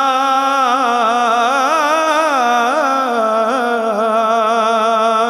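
Devotional naat singing in praise of the Prophet: a voice holds one long, wavering, ornamented note.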